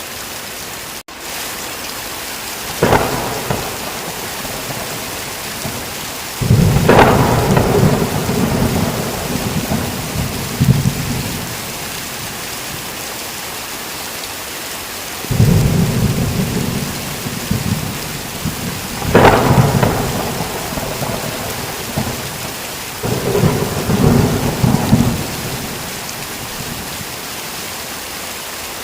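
Steady heavy rain hissing, with thunder breaking through several times: sharp cracks and long low rumbles lasting a few seconds each. The sound drops out for an instant about a second in.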